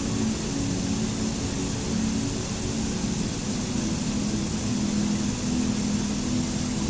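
Steady rushing water noise with low held music tones droning underneath.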